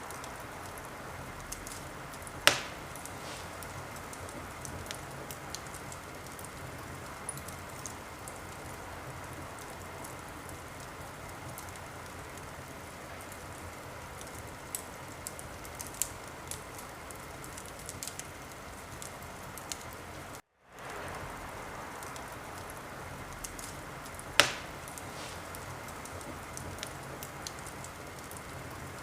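Wood fire crackling in a fireplace: a steady hiss with many small ticks and two loud sharp pops, one a couple of seconds in and one near the end. The sound cuts out for a moment about twenty seconds in.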